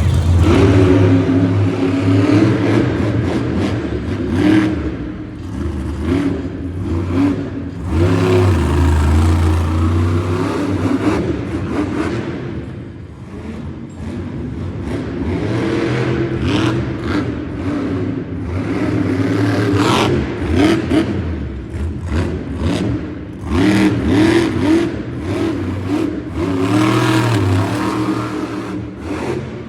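Monster truck's supercharged engine revving hard and dropping back over and over, its pitch rising and falling, with repeated knocks and clatter from the truck landing and crashing.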